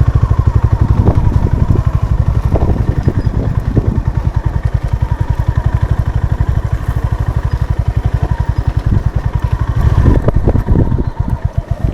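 Honda CB350 RS motorcycle's air-cooled single-cylinder engine running at low revs, an even beat of exhaust pulses, getting louder and uneven briefly about ten seconds in.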